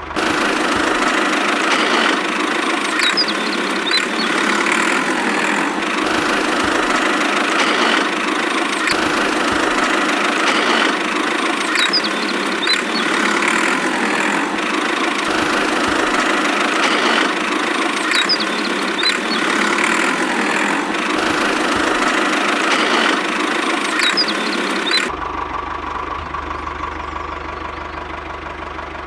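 Small motor running steadily with a dense, rattly buzz, the drive of a DIY mini tractor. About four seconds before the end it abruptly drops to a quieter, deeper running sound.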